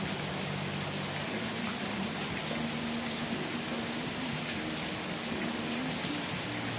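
Steady rain falling, an even hiss of many drops, with a faint low hum underneath.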